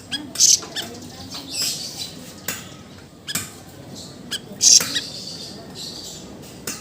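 Siri-siri songbird giving short, sharp, high-pitched squawking calls in irregular bursts, the loudest a little before the five-second mark.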